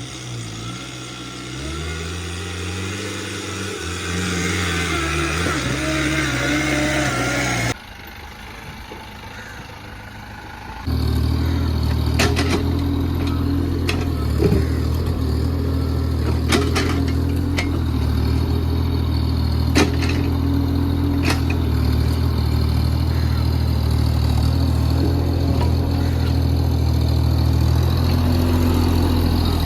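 Mini excavator's diesel engine running steadily under load, with sharp clanks and knocks from the bucket working soil. The engine sound comes in abruptly about eleven seconds in, after a different, shifting-pitch sound and a quieter stretch.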